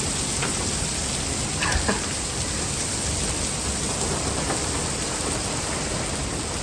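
Heavy rain pouring down in a thunderstorm, a dense, steady hiss. A brief louder sound cuts through it about two seconds in.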